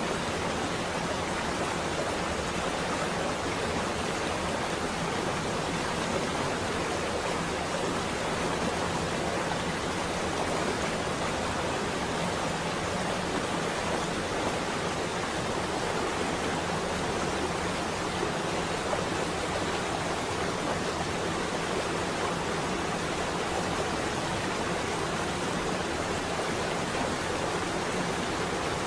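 Steady rain on a window: an even, unbroken hiss with no thunder claps.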